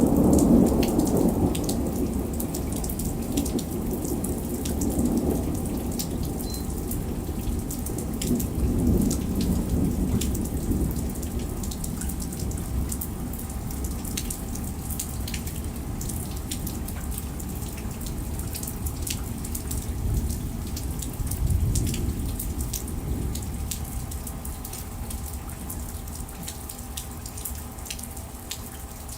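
Thunderstorm: a roll of thunder dies away at the start, and further low rumbles swell about five, nine and twenty-one seconds in. Steady rain falls throughout, with many sharp ticks of rain and hail striking, and the storm slowly grows quieter toward the end.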